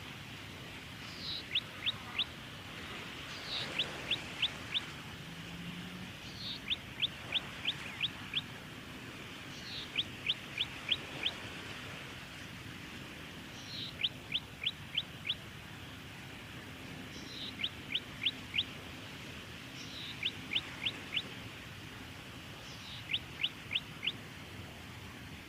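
Golden-headed cisticola singing: a short opening note followed by a quick run of four or five sharp descending notes, the phrase repeated about every three seconds.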